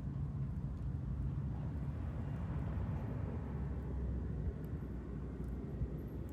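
Low, steady rumble of a distant vehicle passing, swelling about halfway through, with a few faint crackles from the wood fire in the chiminea near the end.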